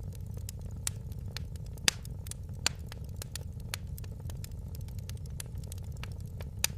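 Wood fire crackling in a fireplace: frequent sharp pops and snaps, a few louder ones about two seconds in and near the end, over a steady low rumble of the flames.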